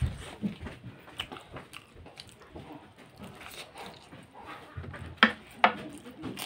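Chewing and biting of soft momo dumplings, with soft irregular mouth clicks. A little after five seconds come two sharp, loud crunches about half a second apart as a crisp lettuce leaf is bitten.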